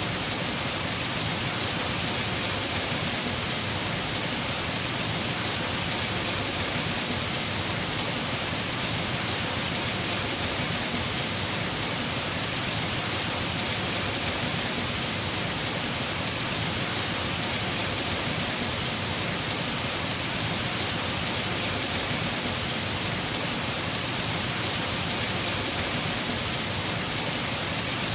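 Heavy rain falling steadily on a house roof, an even hiss of drops with no breaks or distinct impacts.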